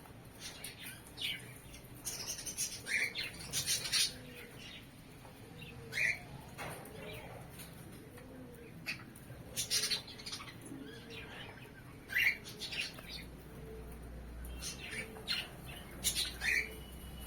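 Caged pet birds calling: short sharp chirps and squawks repeated every second or two, the kind of flock noise of lovebirds in an aviary.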